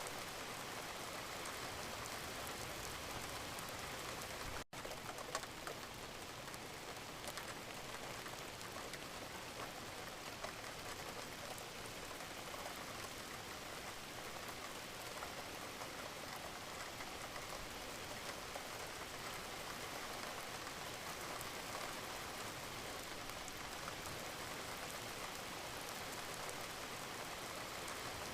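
Steady rain falling, an even hiss with scattered individual drops ticking through it. The sound cuts out for a split second about five seconds in, then carries on unchanged.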